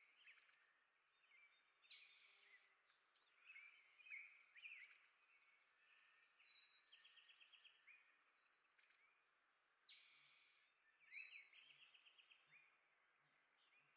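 Faint chirps and short, rapid twitters of small songbirds, coming every second or two.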